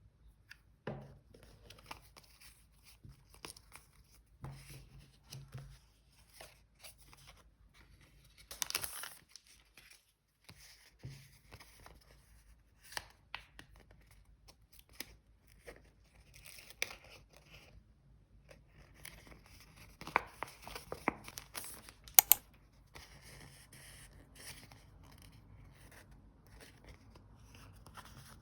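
Paper crafting on a diary page: paper and stickers handled, peeled and torn, with intermittent rustling and small clicks. A longer rustle comes about nine seconds in, and a few sharp taps around twenty seconds in.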